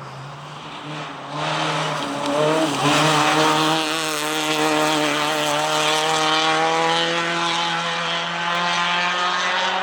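A rally vehicle's engine at high revs. It grows loud about a second and a half in, climbs a little in pitch, then holds steady.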